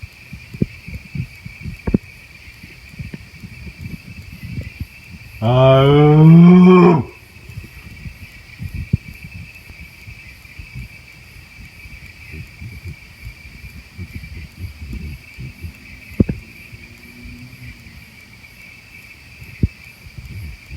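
A man's loud hummed call, one low drawn-out note rising in pitch for about a second and a half, made to draw a reply from the woods. Night insects trill steadily throughout, with scattered faint clicks.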